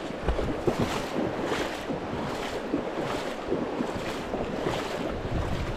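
Wader-clad footsteps sloshing through a river, a splash surging about every second, over rushing water and wind buffeting the microphone.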